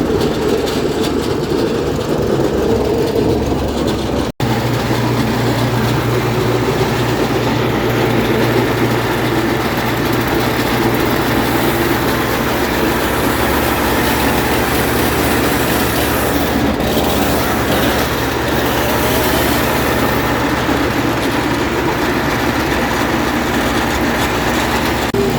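Rebuilt V465D engine of a Bandit 90XP brush chipper running steadily and loudly, with a brief break about four seconds in.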